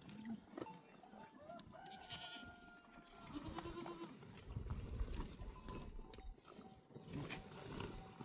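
Livestock bleating a few times, with the longest call held about two to three seconds in.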